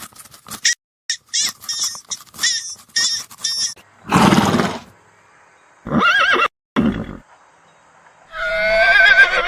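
Farm animal calls in quick succession: a run of short, high-pitched calls, then a loud call about four seconds in, two shorter calls around six and seven seconds, and a long wavering bleat near the end.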